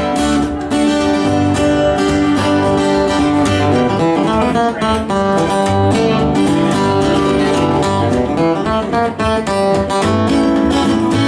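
A live country/folk band playing an instrumental break, with strummed acoustic guitar over a bass line.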